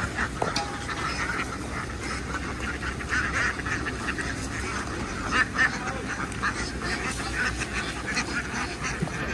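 A large flock of domestic ducks quacking, a dense chorus of many overlapping calls with no pause, over a steady low hum.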